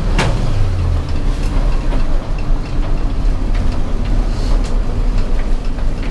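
1935 International Harvester C-35 armored truck under way, its 241 cubic inch overhead-valve six running with a steady low rumble, heard from inside the riveted steel rear compartment with scattered knocks and rattles from the body.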